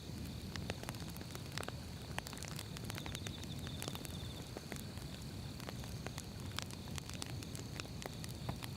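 Firewood burning in a fire, crackling and popping with many irregular sharp snaps over a low, steady rumble of the flames. A faint steady high tone sits underneath, with a brief pulsing trill about three seconds in.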